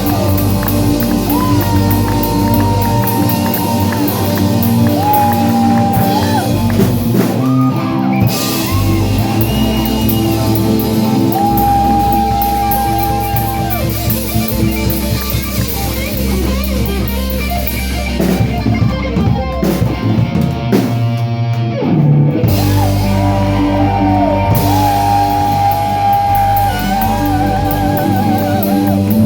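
A live rock band playing: electric lead guitar holding long, bent notes with vibrato over a drum kit and bass.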